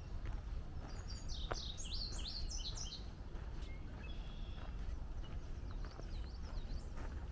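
A songbird singing a phrase of rapid up-and-down notes, about two seconds long starting about a second in, with a fainter phrase near the end. Steady low outdoor noise underneath.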